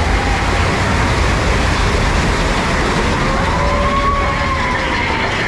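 Big Thunder Mountain Railroad mine-train roller coaster running along its track, heard from on board as a loud, steady low rumble. A long wail rises and then falls about halfway through.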